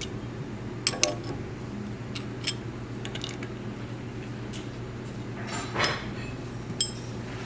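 Scattered metallic clinks and taps of bolts and hand tools against a steel mounting plate as bolts are threaded in by hand, with a louder clank about six seconds in, over a steady low hum.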